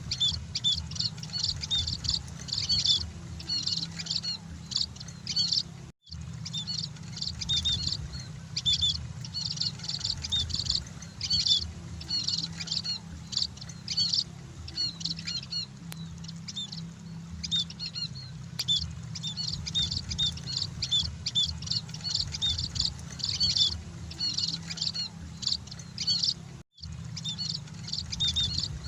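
Munias (emprit) chirping rapidly and continuously in high, overlapping tweets, over a steady low hum; the sound cuts out for an instant twice.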